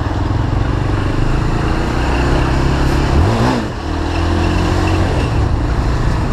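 Honda CB300 motorcycle's single-cylinder engine running through slow traffic, with a quick rise and fall in revs about three seconds in, then a brief dip in level.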